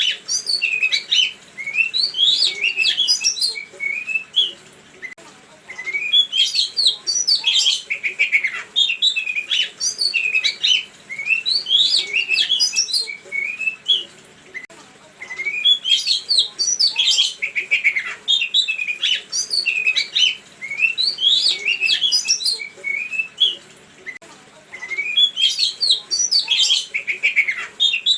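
A songbird singing: phrases of rapid, chirping and sharply gliding notes about three seconds long, repeated with short pauses about every five seconds.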